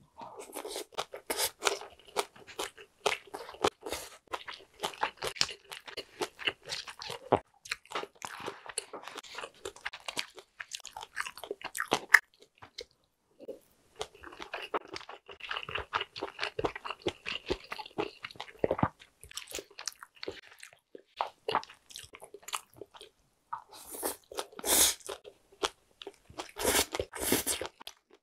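Close-miked chewing of a mouthful of chirashi sushi with fresh vegetables, wet and crunchy. The crackling comes in runs, with short pauses about 13 and 22 seconds in, and a few louder crunches near the end.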